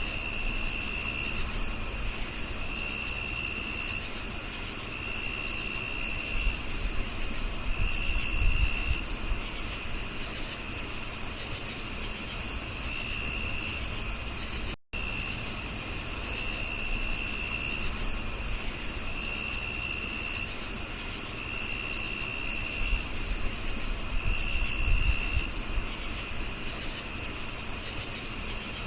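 Crickets chirping in chorus: a steady high trill, a regular pulsing chirp about two or three times a second, and a lower trill in short phrases every couple of seconds. The sound cuts out for a split second about halfway through, and a low rumble comes up twice.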